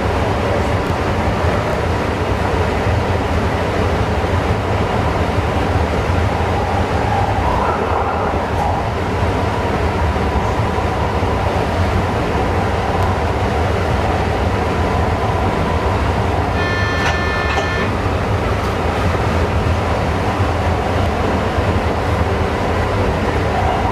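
A train running, heard inside the driver's cab: a steady low rumble and rolling noise from the running gear. About two-thirds of the way through, a high pitched tone sounds for about a second.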